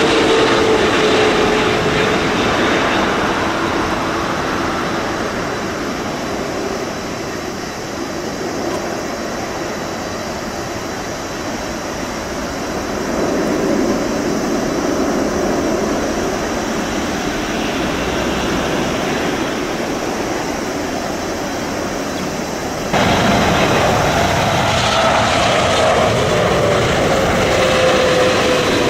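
Jet airliners on approach passing close by, a steady rumble with an engine whine that falls in pitch as each one goes past. About 23 seconds in the sound cuts abruptly to a second aircraft, whose whine slides down in pitch near the end.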